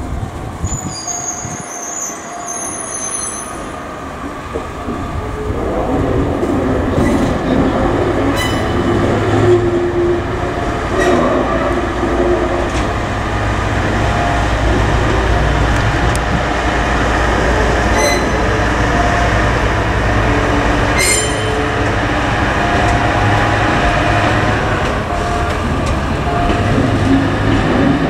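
Stored JNR-era cars (189 series, 115 series and a KuMoYuNi 143) rolling slowly along depot tracks, their wheels squealing and grinding on the rails, with a few sharp knocks. The rumble grows louder about five seconds in as the cars come closer.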